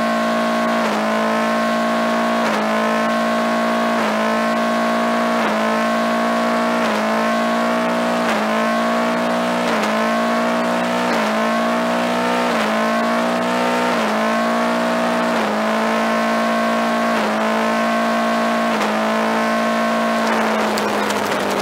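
1995 Saturn SC2's 1.9-litre four-cylinder engine held at high revs through a stationary burnout, the spinning front tyres throwing off smoke. The engine note stays at one high pitch, sagging briefly and recovering about every second and a half.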